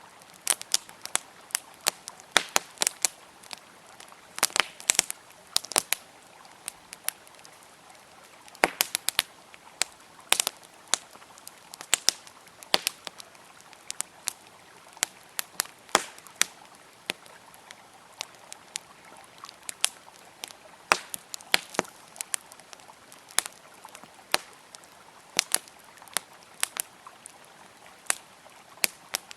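Wood campfire crackling, with sharp pops coming irregularly several times a second, over a faint steady rush of flowing river water.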